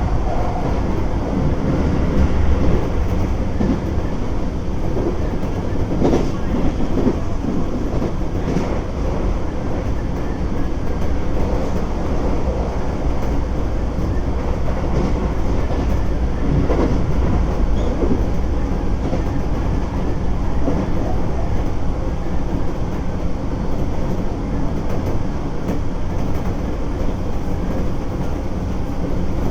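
Keisei 3400 series electric train running at speed, heard from inside the car: a steady rumble of wheels on rail, with a few rail-joint clicks around six to nine seconds in and again around seventeen seconds in.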